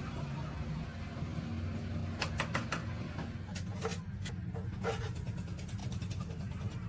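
A motor running with a steady low drone, with scattered sharp metallic clicks and taps over it, several in quick succession a couple of seconds in.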